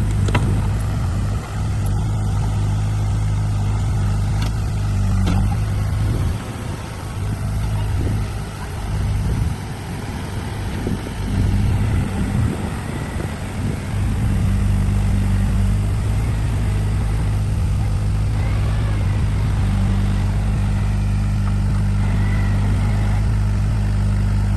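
Heavy diesel engine running at a steady low note, unsettled and wavering for several seconds in the middle before settling back to a steady run.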